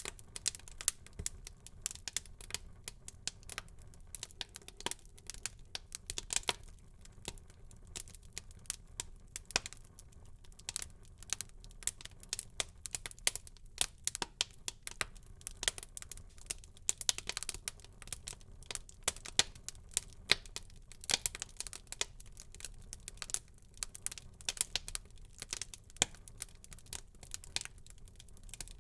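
Wood fire crackling and popping in a fireplace: many irregular sharp snaps over a low steady rumble of burning.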